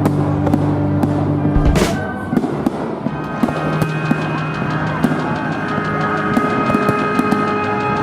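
Fireworks display: shells bursting and crackling, with one loud bang about two seconds in and a steady patter of sharp cracks, over loud music.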